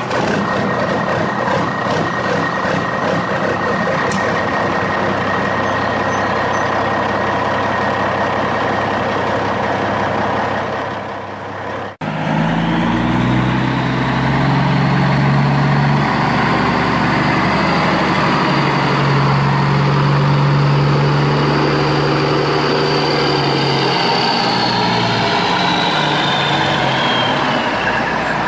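Remote-control toy vehicle running, its motor and gears making a continuous mechanical noise. About twelve seconds in the sound cuts and restarts as a steadier low hum with a high motor whine, which drops in pitch near the end.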